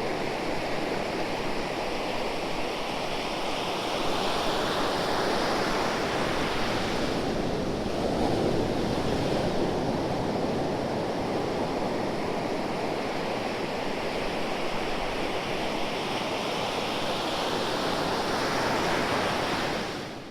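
Ocean waves breaking and washing on the shore, a steady surf noise that swells and eases every few seconds, fading out at the very end.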